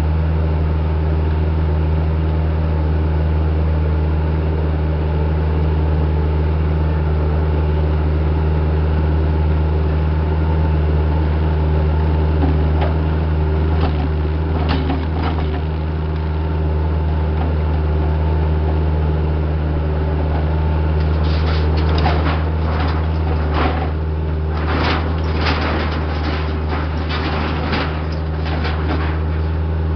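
Diesel engine of a piece of earthmoving equipment running steadily. A few knocks come about halfway through, and a run of rattling and knocking follows in the last third.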